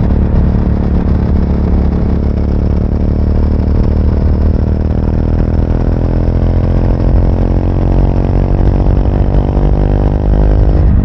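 Triumph Speed 400's single-cylinder engine running under way, its note rising slowly and steadily in pitch as the motorcycle gathers speed, then changing abruptly near the end.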